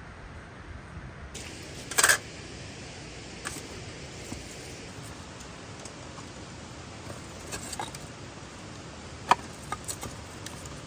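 Scattered clinks and knocks of objects being handled, over a steady hiss. There is a loud cluster about two seconds in and a sharp single clink near the end.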